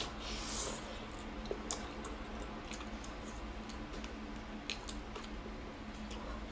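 A person biting into and chewing a mouthful of fatty pork belly. The bite comes about half a second in, then chewing with sharp little mouth clicks scattered through.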